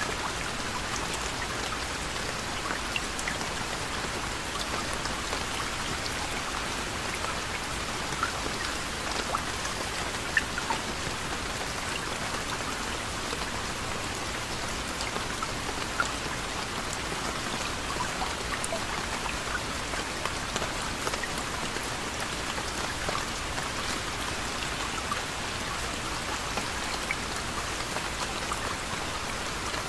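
Soft, gentle rain falling steadily: an even hiss of rain with many separate small drop ticks and now and then a louder drop.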